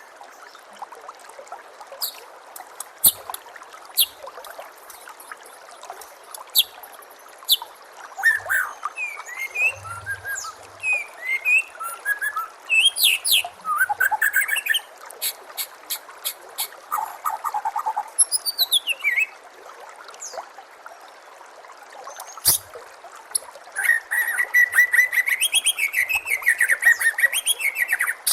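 White-rumped shama singing a varied song of sharp clicks, short whistled notes and sweeping phrases, ending in a fast chattering run, over a steady trickle of water.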